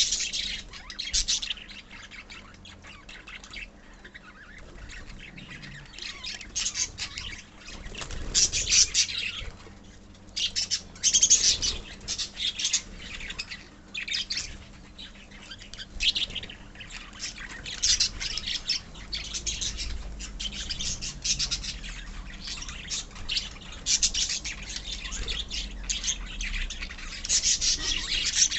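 A colony of lovebirds chattering and squawking, many shrill calls overlapping in irregular bursts with brief lulls.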